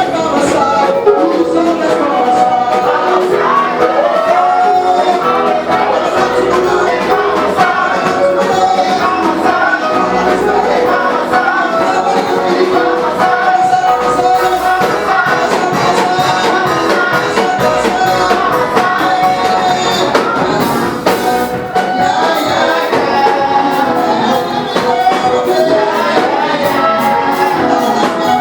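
Live gospel praise music: voices singing over a band, with percussion ticking steadily on top.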